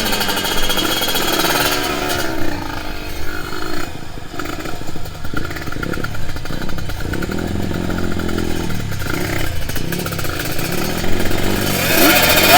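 Kawasaki Ninja 150RR's two-stroke single-cylinder engine revving, its pitch rising and falling repeatedly.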